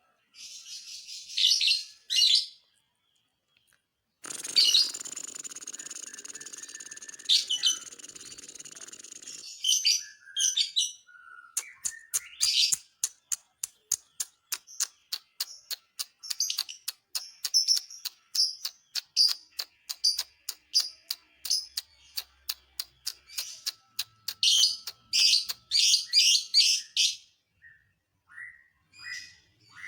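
Lovebird singing: sharp high chirps, then a long run of rapid ticking notes at about three to four a second, with louder chirps breaking in. This is the 'ngetik' ticking song that lovebird keepers train for. A steady hiss sits under the first few seconds of chirping.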